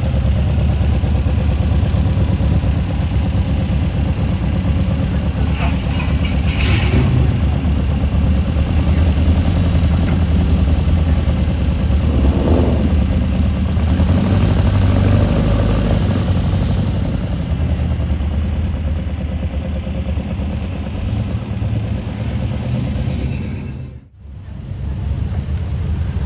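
1967 Volkswagen 1500's air-cooled flat-four engine running steadily with a low rumble. The sound drops out briefly near the end.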